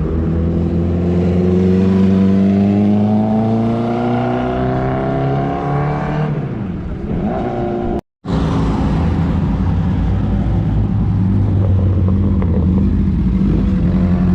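Honda CBR1000RR Fireblade's inline-four engine through a straight-pipe exhaust, pulling with its pitch rising steadily for about six seconds, then falling away. After a brief cut to silence about eight seconds in, it runs again at a fairly steady pitch.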